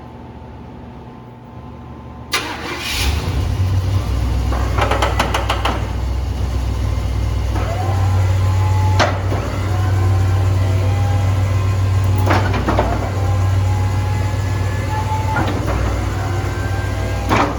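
A Chevy K3500 plow truck's engine starting about two seconds in and then running steadily. Short rising whines and several sharp clunks sit on top of it, fitting the Fisher plow's hydraulics being worked to check the tilt cylinders for a leak.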